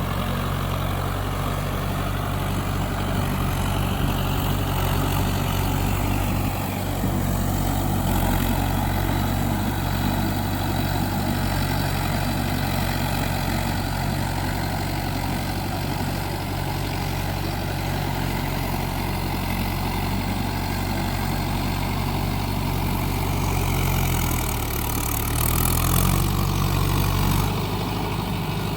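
Mahindra 4x4 tractor's diesel engine running steadily, its note wavering up and down briefly near the end.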